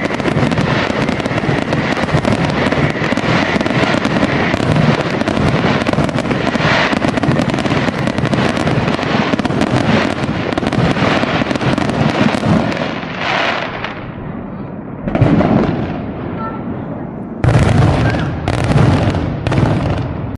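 Fireworks display at close range: a dense, continuous crackle and bang of many shells and stars bursting at once. It thins out about two thirds of the way through, then comes back loud near the end.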